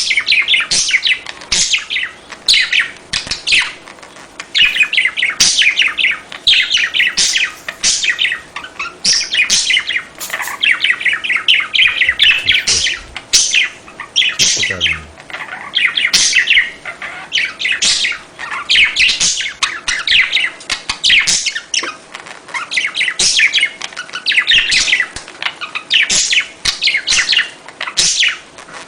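A flock of budgerigars chattering and warbling: rapid, high chirps packed into busy bursts, with short lulls every few seconds.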